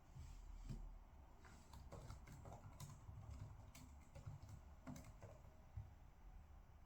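Faint, scattered keystrokes on a computer keyboard: irregular clicks and taps.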